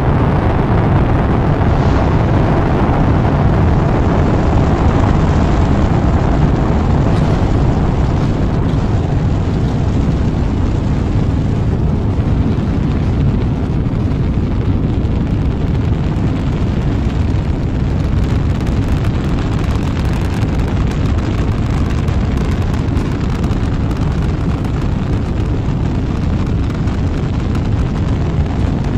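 Rocket engines at launch: a loud, continuous low rumble. Its hissier upper part fades over the first several seconds, leaving the deep rumble.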